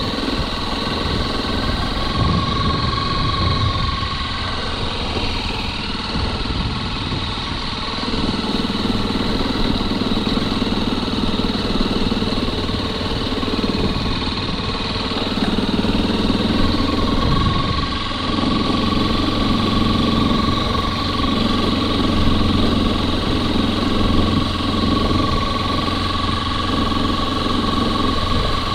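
Motorcycle engine running steadily while riding, its note getting stronger about eight seconds in and easing briefly about two-thirds of the way through.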